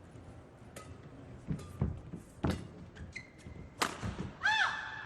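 Badminton rally on an indoor court: several sharp racket strikes on the shuttlecock mixed with low thuds of footwork, and short squeaks of shoes on the court floor near the end.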